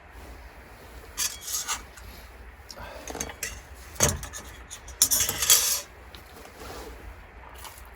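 Several short rubbing, scraping strokes and a sharp knock about four seconds in, the loudest scrape a little after five seconds.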